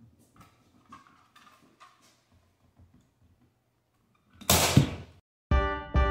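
Faint handling clicks and rustles, then a loud rushing whoosh about four and a half seconds in, followed by background music with a beat starting near the end.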